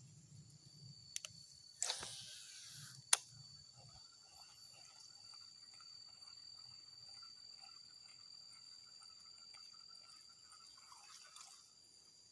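Insects chirring steadily on two high pitches, with a fainter warbling chorus beneath. About two seconds in there is a brief rustle, followed by a single sharp click.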